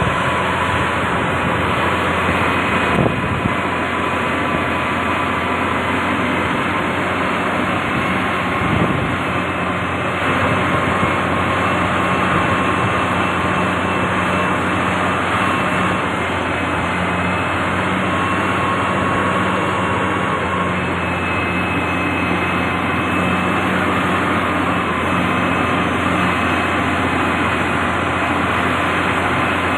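Diesel engine of heavy road-building machinery, a motor grader or road roller, running steadily under load with a constant drone and a faint high whine.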